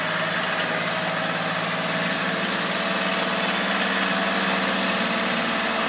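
Kioti compact tractor's diesel engine running at a steady speed.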